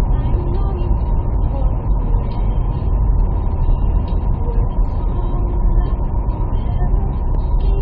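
Steady low rumble of road and engine noise inside a moving car's cabin, with a faint radio voice underneath.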